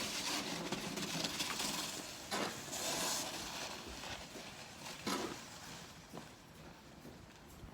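Snow shovel scraping and scooping snow, with a rushing scrape over the first few seconds and sharp knocks of the blade about two and a half and five seconds in.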